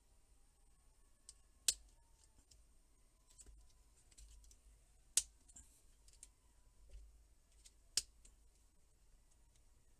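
Three sharp clicks about three seconds apart, with fainter ticks and taps between.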